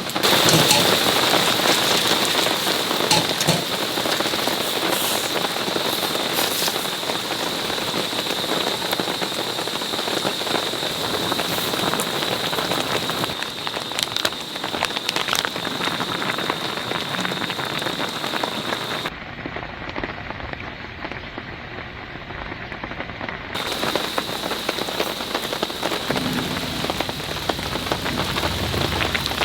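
Heavy rain falling on a camping tarp: a steady, dense patter with many sharper individual drops. For a few seconds about two-thirds through, the sound turns duller.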